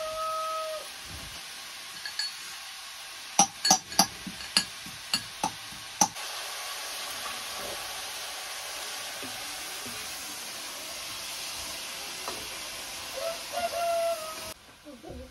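Vegetables sizzling in a wok over a wood fire, with a metal ladle clinking and scraping against the pan about seven times between three and six seconds in. A rooster crows at the start and again near the end; the sizzle cuts off suddenly shortly before the end.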